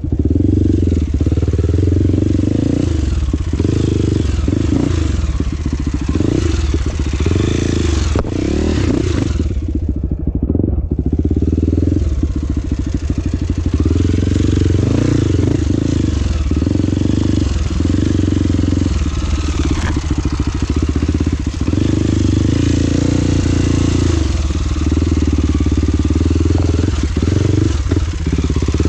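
Off-road trail motorcycle engine running under load, revving up and down repeatedly as it rides, with a short let-off about ten seconds in.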